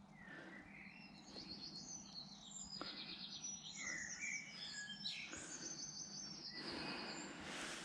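A bird singing: a run of quick trilled phrases and short chirps, with a faint steady hum beneath.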